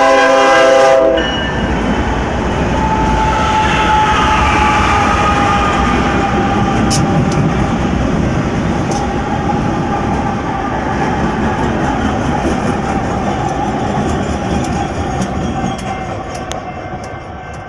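A string of about ten diesel locomotives running light. Their multi-chime horn cuts off about a second in, followed by a steady heavy rumble of engines and wheels on the rails with a few sharp clicks. The sound fades slowly near the end as the consist goes by.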